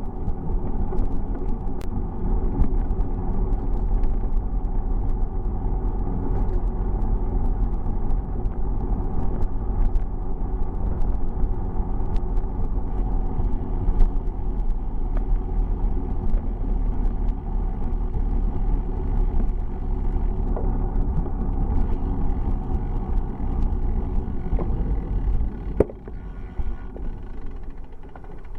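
Steady low rumble of wind and tyre noise from a moving bicycle, with scattered small clicks and rattles. It eases off slightly near the end.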